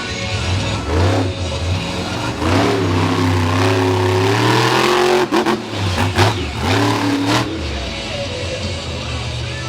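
Monster truck engine revving hard: it climbs in pitch and holds high for a couple of seconds, cuts off sharply about five seconds in, then blips up and down in shorter revs before settling at a lower note.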